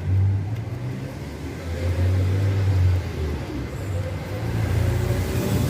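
Wind buffeting the microphone: a low rumble that swells and falls in gusts.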